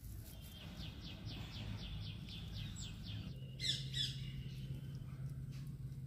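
A bird calling: a fast run of short falling notes, about five a second, for about three seconds, then a few louder downward chirps, over a steady low hum.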